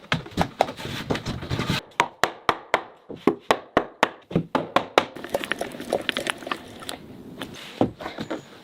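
Hand work on a wooden window frame: a run of sharp wooden knocks and taps, two or three a second, over a scraping rustle in the first two seconds, growing quieter and sparser after about six seconds.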